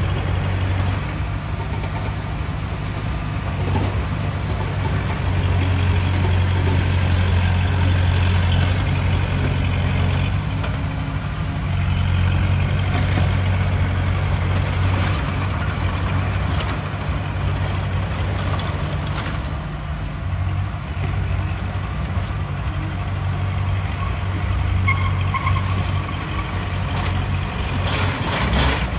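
Heavy diesel earthmoving machinery running under load with a steady low drone, with scattered short clanks and scrapes over it.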